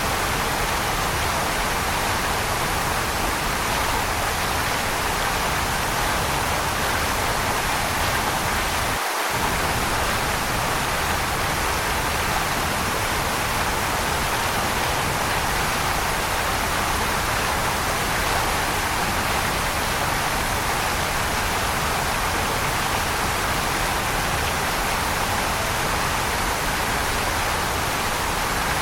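Waterfall running in a steady, unbroken rush of falling water.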